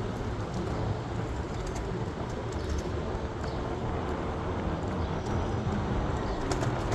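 Steady low rumble of vehicle noise with scattered faint clicks and a faint steady hum in the middle.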